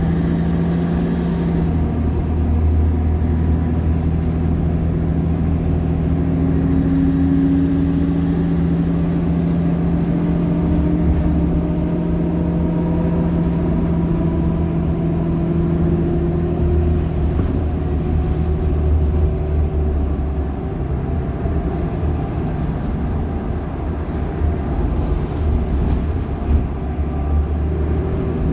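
Nova LFSA hybrid articulated bus under way, its Cummins ISL9 diesel and Allison hybrid drive running with a steady low rumble. A whine rises in pitch for several seconds as the bus picks up speed, and a faint high-pitched tone fades out and returns near the end. A few short rattles or knocks come late on.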